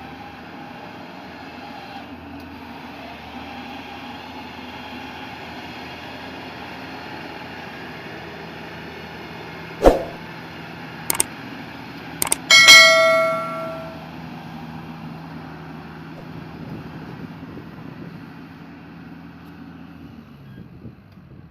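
A machine's motor running steadily, with a few sharp knocks about halfway through and then one loud metallic clang that rings for about a second; the running sound fades out near the end.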